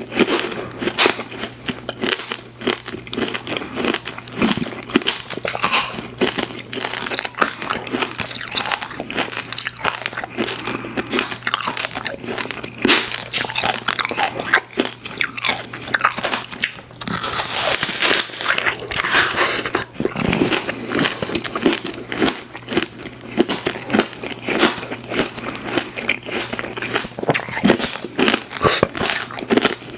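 Close-miked eating of candy and snack cakes: repeated bites and continuous chewing with crunching, and a sharper, brighter burst of crunching about seventeen seconds in.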